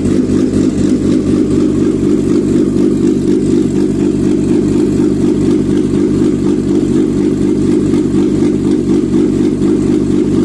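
Nissan CA16S 1.6-litre carburettor four-cylinder engine running steadily on a test stand, warm at 82 °C. The pitch and level stay even throughout, with no revving.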